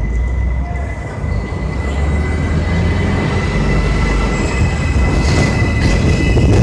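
New York City subway train running on the elevated track, a low rumble growing louder with a steady high-pitched wheel squeal throughout.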